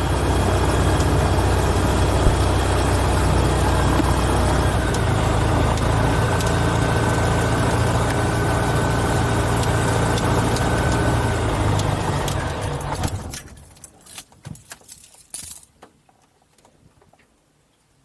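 Light aircraft's piston engine idling steadily, then shut down about 13 seconds in and running down to quiet. A few scattered clicks follow as it stops.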